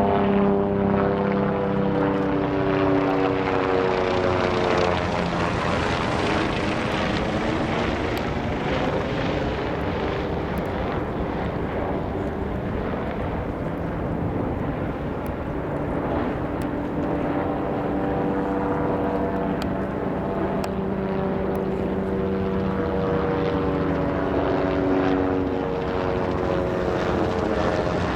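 Low-flying tourist helicopters passing overhead: a loud, continuous rotor and turbine drone. The pitch drops as one passes in the first few seconds, and another comes over and drops in pitch near the end.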